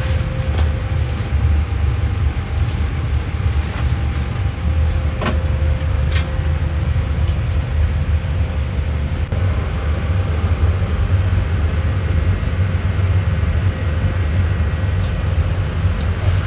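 Steady low rumble heard from inside a moving vehicle, with a faint steady hum and a few light clicks and knocks.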